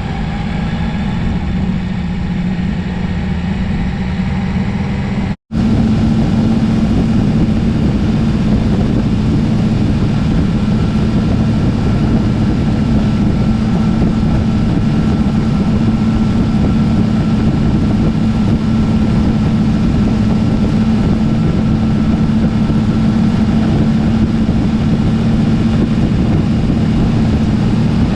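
Motorcycle engine running at a steady cruise under a constant rush of wind noise, with a steady low hum. The sound cuts out for an instant about five seconds in, then carries on unchanged.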